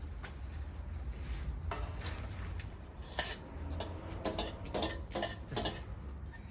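Metal utensils knocking and scraping against a pot or dish while cooking, a run of sharp clinks through the middle seconds, over a steady low rumble.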